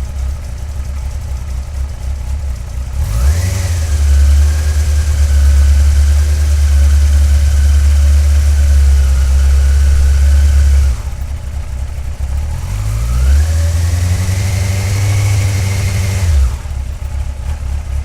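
2002 Yamaha FZS1000's inline-four engine on its stock exhaust, idling and then revved up and held at a steady high speed for several seconds. It drops back to idle, then is revved and held again for a few seconds before settling back to idle.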